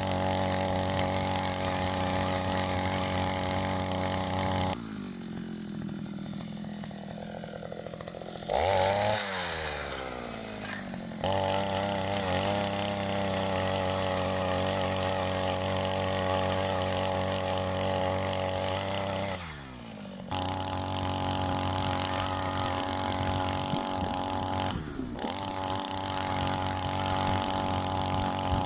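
A small petrol engine running steadily at high speed. About five seconds in it drops to a lower speed, revs up sharply with its pitch sliding down, and settles back to steady running. It dips briefly again later on.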